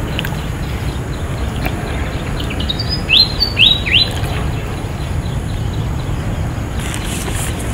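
A bird calling, a quick run of three sharp notes about three seconds in, over a steady low rumble.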